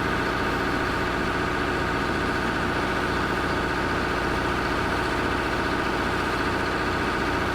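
A large vehicle engine running steadily at a constant speed, with an even, rapid pulse and no change in pitch.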